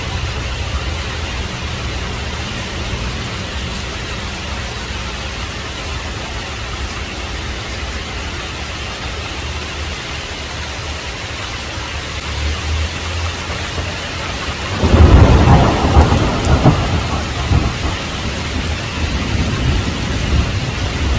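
Heavy rain falling steadily with low thunder rumbling under it; about three quarters of the way through a loud thunderclap breaks in and rolls on for a few seconds.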